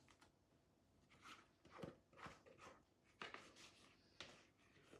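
Faint, soft handling sounds of sliced strawberries being laid onto a whipped pudding topping: a few light, irregular taps and squishes, most of them in the middle.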